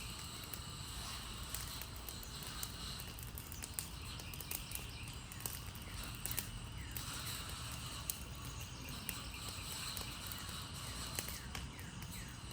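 An Adirondack chair burning in an open fire, crackling with irregular sharp pops over a low steady rumble of flame.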